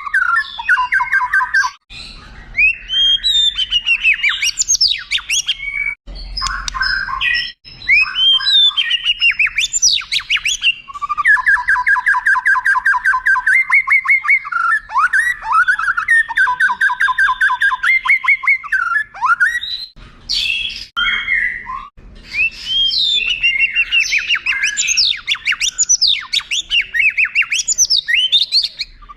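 White-rumped shama singing a long, varied song: rapid rattling trills alternate with sweeping whistled notes. There are a few short breaks between phrases.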